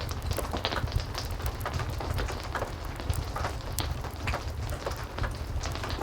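Heavy rain falling steadily together with a wood fire crackling, with irregular sharp pops over a continuous low rumble.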